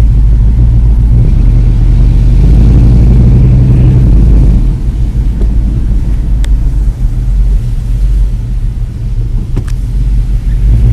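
1976 Chevrolet Monte Carlo's 350 small-block V8 with dual Flowmaster 40 series mufflers, heard from inside the cabin as the car drives off: a steady low exhaust rumble that eases slightly about halfway through. Two short clicks come through near the end.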